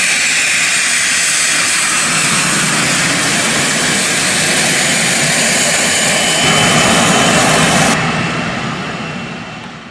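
Cessna 560 Citation XLS+ business jet's twin turbofan engines running, a loud steady jet rush. About eight seconds in the high end drops away and the sound fades out over the last two seconds.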